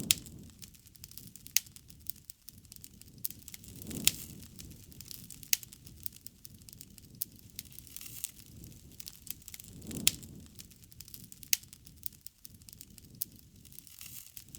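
Wood bonfire crackling, with frequent sharp pops and a low soft rush that swells about every four to six seconds.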